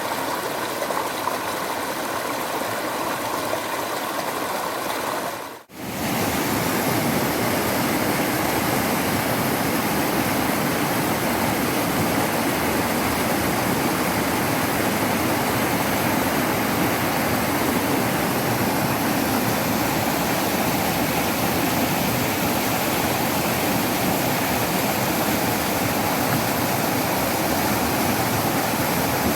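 Waterfall water rushing steadily. Near six seconds in the sound fades out for a moment and comes back fuller and a little louder, at a cut from one recording to another.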